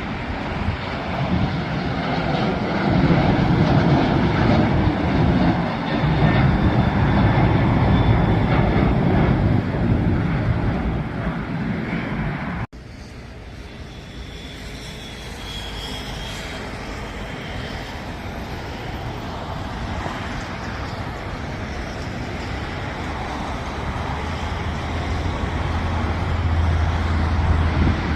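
Jet airliner engines at takeoff power, heard as a steady wash of engine noise. About halfway through it cuts off abruptly, then a quieter engine sound builds again, growing stronger toward the end.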